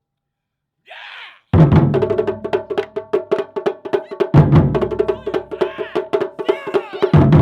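Japanese taiko drums come in after a silent pause: a heavy low drum hit about a second and a half in starts fast, driving drumming. Sharp, high strokes run rapidly throughout, and big low booms repeat about every three seconds.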